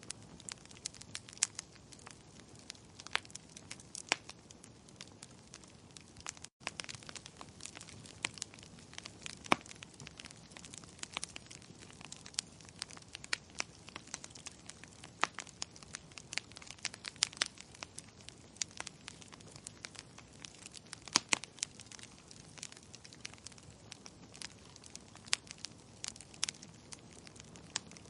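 Wood fire crackling in a fireplace: irregular sharp pops and snaps over a soft steady hiss, with a split-second dropout about six and a half seconds in.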